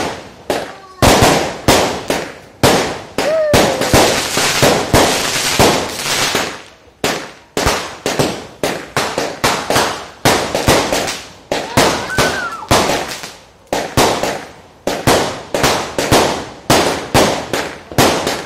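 Fireworks barrage going off in rapid succession: sharp bangs about two a second as aerial shells burst overhead, each dying away within about half a second, with a brief lull about seven seconds in.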